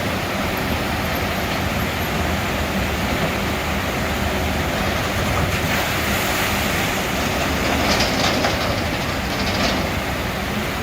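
Log flume ride running: a steady rumble and clatter of the ride along its track, a little louder with a few sharp clicks about eight seconds in.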